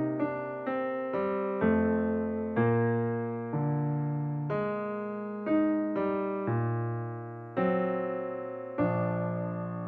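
Background piano music: slow notes and chords struck about once a second, each ringing and fading, with the last chord left to die away near the end.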